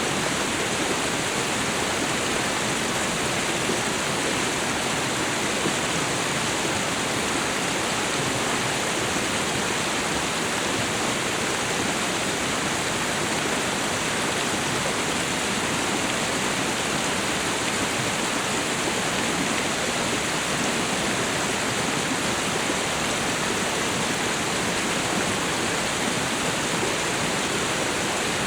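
Waterfall and river water rushing as a steady, even roar of noise.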